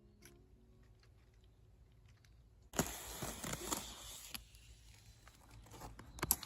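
Gear being handled close to the microphone: after a faint fading tail of music, rustling with several sharp clicks and taps starts about three seconds in.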